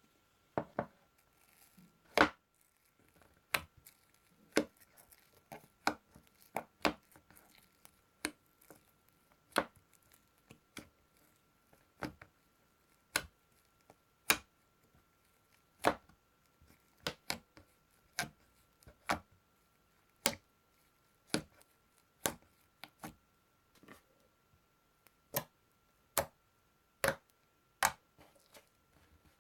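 Homemade slime worked by hand, giving sharp clicks and pops about once a second, irregularly spaced. A faint steady high tone runs underneath.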